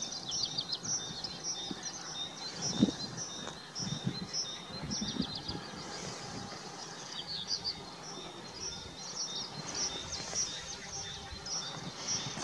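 Small birds chirping and singing continuously, with a few short low thumps, the loudest about three seconds in.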